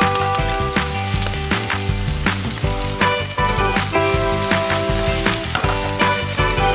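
Pork, onions, chillies and shrimp paste sizzling in a frying pan while being stirred with a wooden spatula, under background music with held notes.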